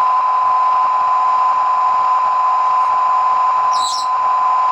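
Recorded fuel priming pump of a Class 37 diesel, played by a model locomotive's TTS sound decoder through two iPhone speakers wired in series: a steady high whine held on one pitch, the priming stage before engine start. A brief hiss comes in near the end.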